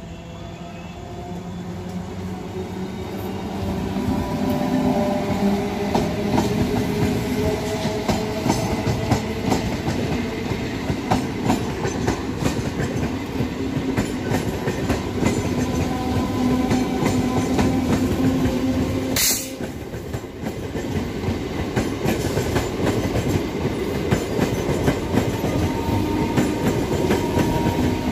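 MEMU electric multiple-unit train approaching and running through the station without stopping. It grows louder over the first few seconds, then runs steadily past with a low hum and the wheels clacking over rail joints. About two-thirds of the way through there is one brief sharp crack.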